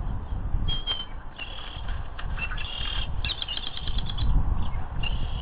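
Small birds chirping in a rapid string of short, high calls, over a low, uneven rumble that swells about four seconds in.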